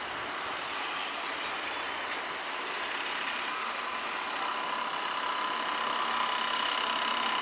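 A train running along the line: a steady noise of the train in motion, with a thin steady whine coming in about halfway through.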